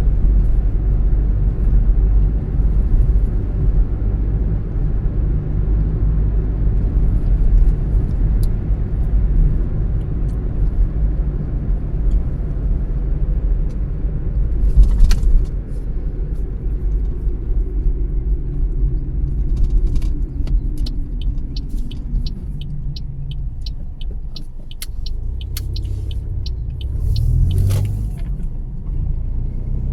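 A car driving, its steady low rumble of engine and tyre noise easing off briefly near the end before picking up again. A fast, regular ticking runs for several seconds in the second half.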